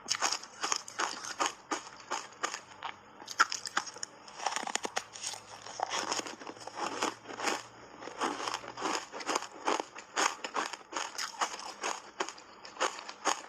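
Hard ice being bitten and chewed close to the microphone: continuous irregular crunching and crackling with a few sharper snaps.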